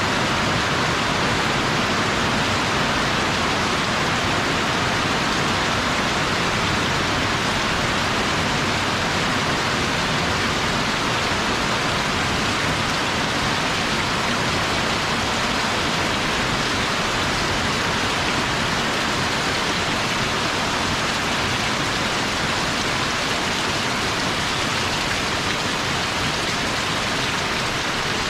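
Heavy rain falling steadily in a downpour, a dense even hiss that neither builds nor eases.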